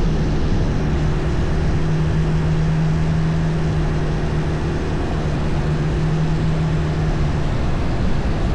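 Longtail boat engine running steadily while underway, a constant low drone over a broad rushing noise.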